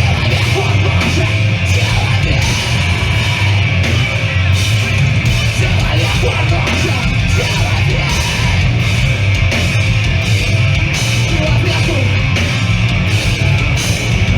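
Live hardcore punk band playing at full volume: distorted guitars, heavy bass and a driving drum beat with crashing cymbals, with yelled vocals over the top.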